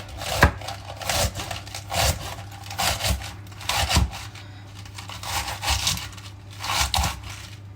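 Knife roughly chopping fresh lettuce, crisp cuts falling about one to two a second in an uneven rhythm.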